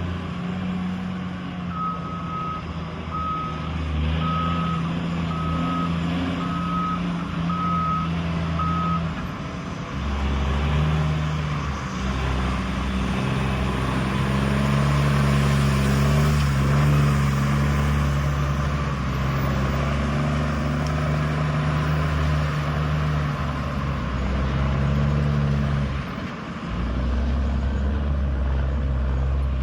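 Diesel engine of heavy construction equipment running, with a backup alarm beeping about seven times, roughly once a second, in the first nine seconds. After that the engine speeds up and works harder, eases off briefly near the end, then picks up again.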